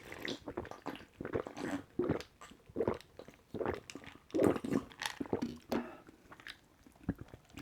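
Close-miked mouth sounds of someone drinking a grape health drink: an irregular run of gulps, swallows and wet mouth clicks, loudest about halfway through and thinning out near the end.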